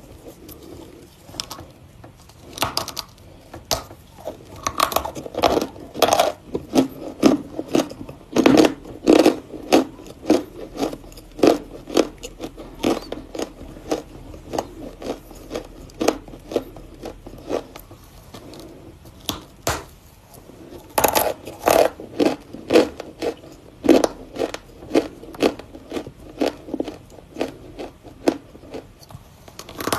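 Lumps of Volokonovka chalk being crunched: a long run of irregular, crisp crackles and snaps with short pauses, densest about eight to ten seconds in and again about twenty-one seconds in.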